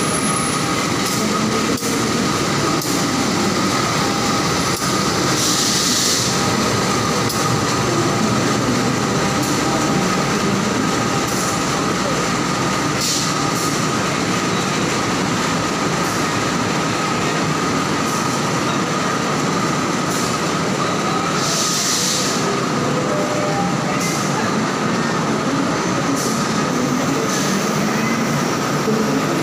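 KAI diesel locomotive and passenger coaches rolling slowly past during shunting, with steady running noise and a steady whine. Short hisses come about 6, 13 and 22 seconds in.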